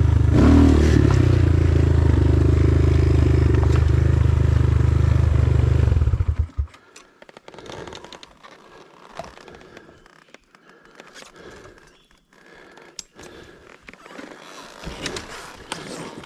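A Hengjian enduro dirt bike engine runs steadily and then cuts off abruptly about six and a half seconds in. After that only faint, scattered clicks and scrapes are heard.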